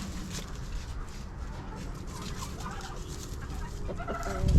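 Chickens and other poultry clucking and calling, with a few short calls in the middle and clearer ones near the end, over a low rumble. A loud low thump comes at the very end.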